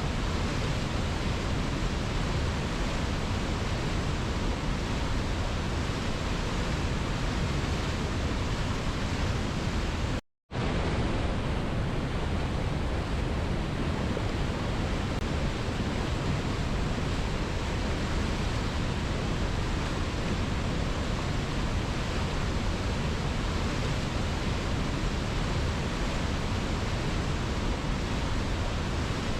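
Waterfall: a steady rush of falling water. The sound cuts out completely for a split second about ten seconds in, then resumes unchanged.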